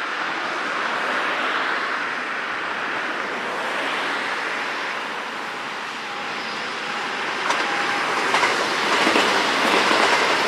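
JR West 521 series electric train approaching and passing, growing louder over the last few seconds, with a few wheel clicks over rail joints as it draws level. A steady hiss runs underneath.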